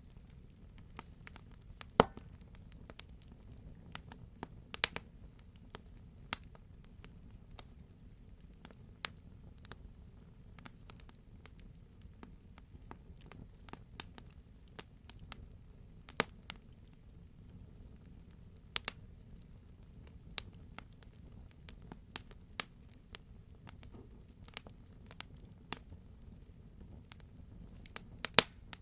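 Wood campfire crackling: a dense, irregular run of sharp pops and snaps over a low steady rumble, with a few much louder pops, one about two seconds in and a pair near the end.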